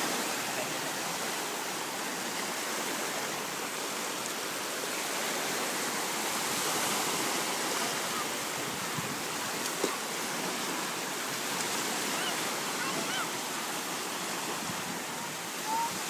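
Seawater surf washing steadily at the shore, with one short knock or splash about ten seconds in.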